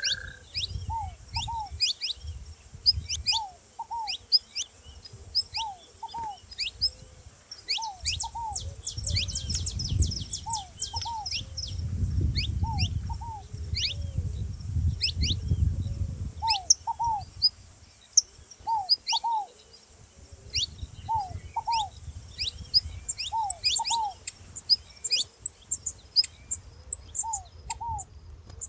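Saffron finches chirping with many short sharp notes, including a fast run of notes about eight seconds in, while a ground dove repeats a paired low call every second or two. A low rumble runs underneath.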